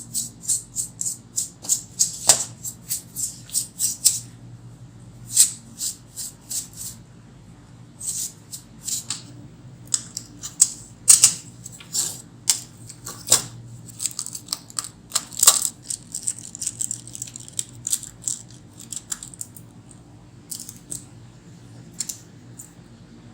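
Quick scrubbing strokes over a laptop's case while it is being cleaned: short, hissy swishes in runs of several a second, with pauses between the runs.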